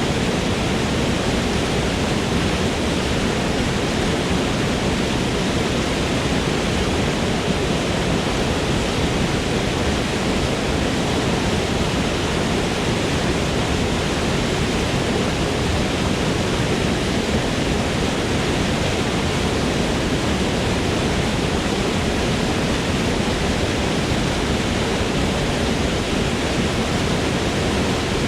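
Waterfall pouring: a steady, even rush of falling water, fullest in the low range, with no change in level.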